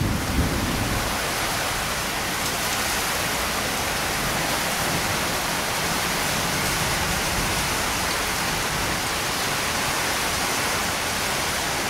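Heavy thunderstorm rain falling steadily, an even hiss with no change in level.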